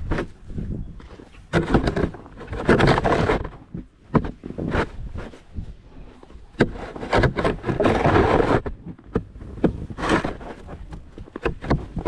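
Snow shovel scraping across the driveway in several pushes of a second or two each, with sharp knocks from the blade in between.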